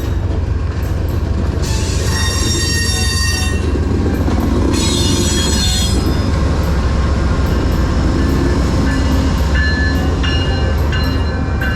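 A train rolling past with a steady low rumble. Its wheels squeal high-pitched twice, for a second or so each, about two and five seconds in, and give shorter squeaks near the end.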